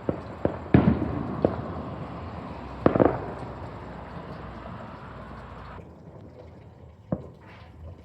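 Fireworks going off: a quick cluster of bangs in the first second and a half, a loud double bang around three seconds in, and a lone bang about seven seconds in. Each bang trails off in an echoing rumble that dies away about six seconds in.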